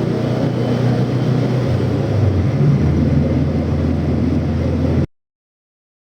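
1995 Volkswagen Beetle's 1.6-litre fuel-injected air-cooled flat-four running, its low note shifting in pitch about two seconds in. The sound cuts off abruptly about five seconds in.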